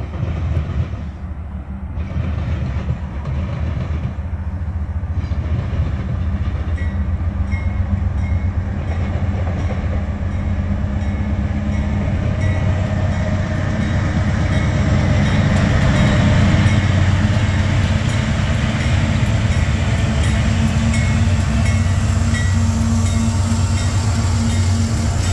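Union Pacific freight train led by diesel locomotive 6683 approaching and passing: the engine drone builds steadily louder as the locomotives draw near, with the sound of wheels on the rails.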